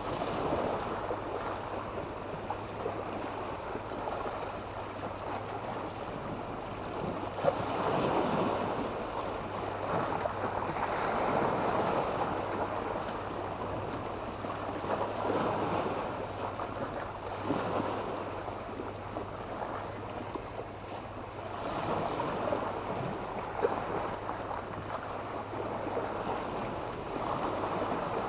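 Small sea waves breaking and washing up a beach of sand and black stones, swelling and receding every few seconds, with a few sharp ticks now and then.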